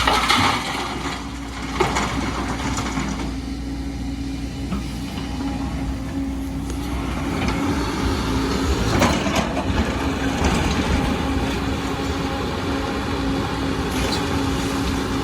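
Diesel engine of heavy earthmoving machinery running steadily with a constant hum, with a few brief knocks or scrapes, the strongest about nine seconds in.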